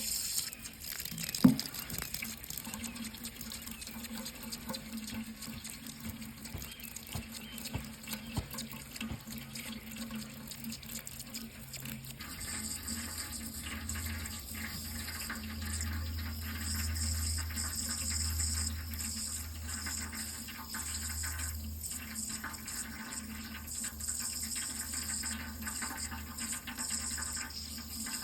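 Water running steadily, with one sharp knock about a second and a half in. A low hum joins the flow about twelve seconds in.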